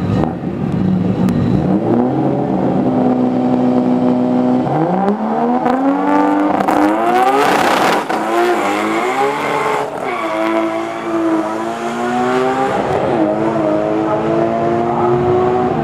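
Bee-R Skyline GT-R race car's 2.8-litre RB26DETT straight-six with a T51R turbo, accelerating hard. The engine note climbs, holds, drops back and climbs again several times, with a burst of hiss about halfway.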